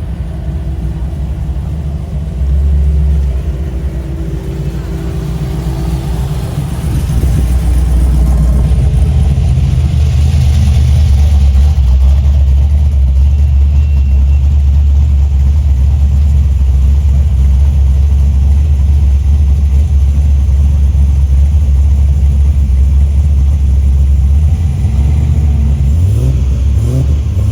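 Car engine running close by with a deep, steady rumble that grows louder about eight seconds in; near the end an engine revs up and back down.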